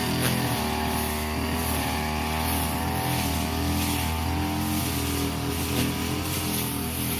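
Brush cutter engine running steadily under load while cutting grass, its pitch wavering slightly up and down.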